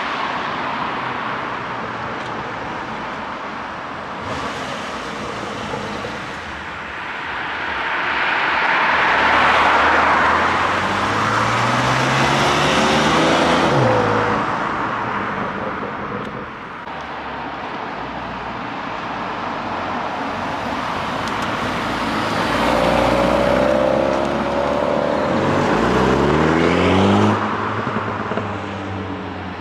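Cars driving past with their engines accelerating over steady road noise. Two engine notes rise in pitch, one from about eight to fourteen seconds in and a second, loudest, around twenty-five to twenty-seven seconds in.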